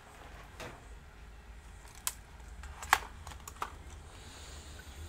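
A few separate light clicks and taps from handling a laptop part and small tools, the loudest about three seconds in, over a faint low hum.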